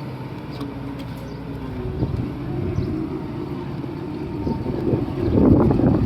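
Komatsu D31P bulldozer's diesel engine running steadily, getting louder and rougher about five seconds in.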